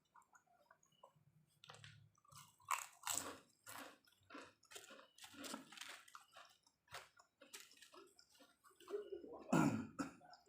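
A person chewing food close to the microphone: a run of irregular wet mouth clicks and smacks, a little louder near the end.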